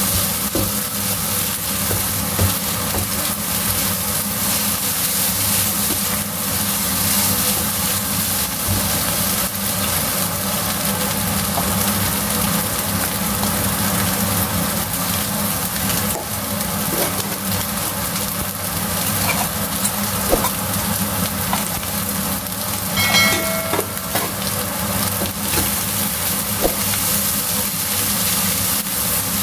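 Beef fried rice with egg sizzling in a nonstick wok while a silicone spatula stirs and scrapes it, over the steady hum of a cooker hood fan. A brief high tone sounds about two-thirds of the way through.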